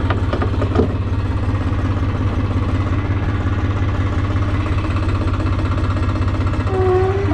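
Case C60 tractor's diesel engine idling steadily, an even low putter with no revving.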